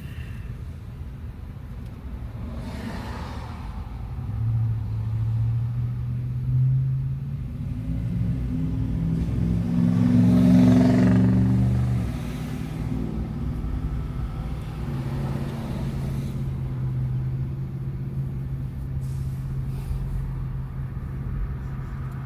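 Car engine and road noise heard from inside the cabin while driving. The engine note climbs in pitch as the car accelerates, is loudest about ten seconds in, then drops suddenly about two seconds later and settles back to a steady drone.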